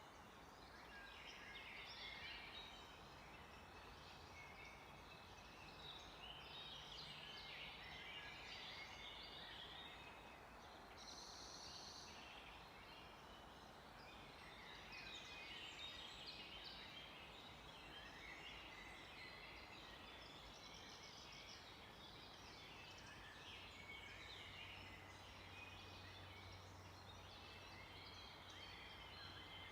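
Faint chorus of several songbirds chirping and trilling over a low background hiss, with one brighter, higher call about eleven seconds in.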